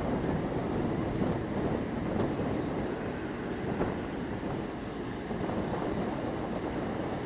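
Strong wind blowing across the microphone on the open deck of a moving car ferry: a steady low rumble and rush with no clear tones.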